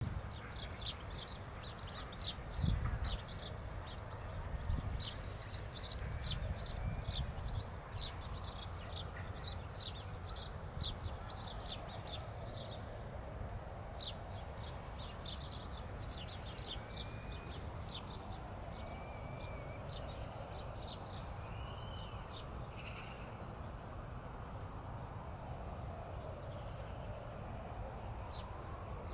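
Faint, distant bird calls: rapid series of short high chirps, several a second, with a few longer calls in the middle, over a steady low rumble of city traffic.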